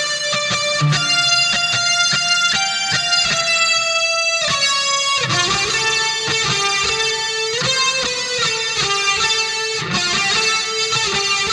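Electric guitar music: fast, busy lead playing over a steady backing.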